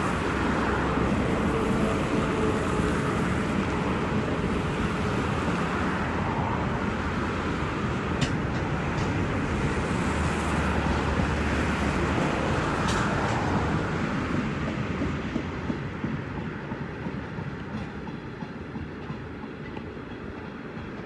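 Freight train rolling over a railway bridge: a steady rumble and clatter of wagon wheels, with a few sharp knocks, fading away over the last several seconds as the train moves off.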